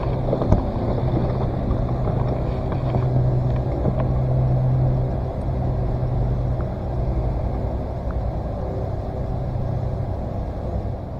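Boat motor running steadily: a low, even hum over a rumble that drops away near the end.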